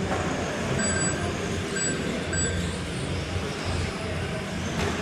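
Steady noise of radio-controlled Tamiya trucks racing on an indoor carpet track, with three short electronic beeps about one, two and two and a half seconds in.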